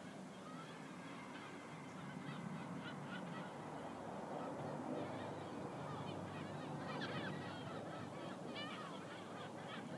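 Birds calling, a scatter of short chirps coming most thickly in two spells, over a low steady background rumble.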